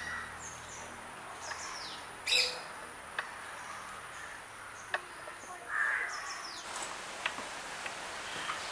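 Birds chirping, short high calls that slide downward several times, with a few light knocks and clicks, the loudest about two and a half seconds in.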